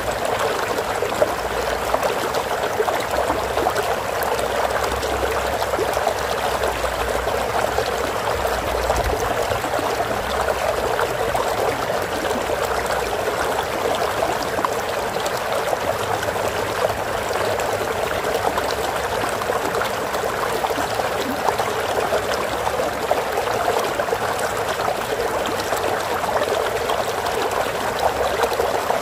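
Flowing stream water running and trickling steadily, an even unbroken babble.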